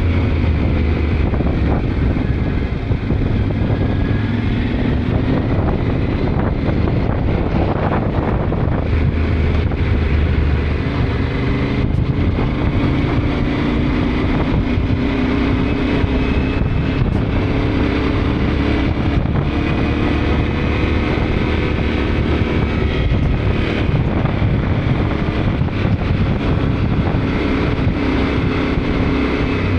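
Yamaha Ténéré 700 parallel-twin engine running under way, its pitch rising and falling gently with the throttle, with wind rushing over the microphone.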